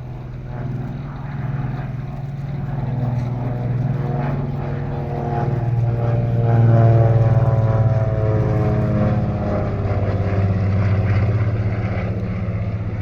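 Lockheed 12A Electra Junior's twin Pratt & Whitney R-985 Wasp Junior radial engines on a flyby. The engine note builds to its loudest about seven seconds in and drops in pitch as the aircraft passes, then eases off slowly.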